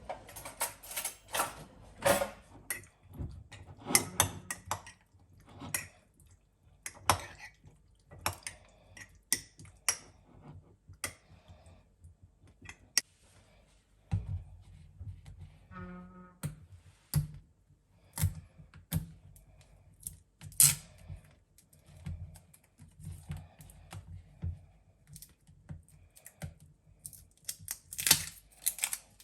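Irregular clicks, taps and light knocks of small hard objects being handled, with a short pitched tone about 16 seconds in.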